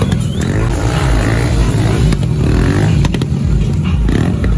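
Motorcycle engine running and revving, its pitch rising and falling, with a few sharp clicks about two and three seconds in.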